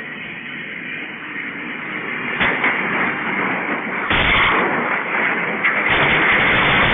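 Steady rushing road and wind noise of a moving vehicle, with one sharp bang about two and a half seconds in; the noise grows louder about four seconds in.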